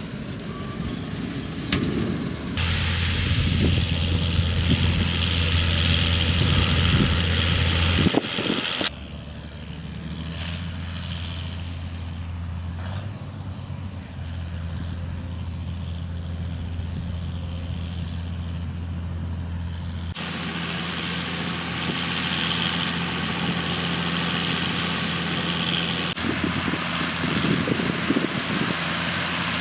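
John Deere 6530 tractor running steadily under load while round-baling wheat straw, a deep engine drone with mechanical rattle and hiss above it. The sound shifts abruptly in level and character about two and a half, nine and twenty seconds in.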